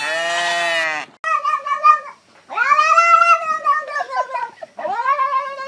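A cat yowling: about a second in it starts a string of three long, drawn-out meows, the middle one the longest. A long pitched call fills the first second before them.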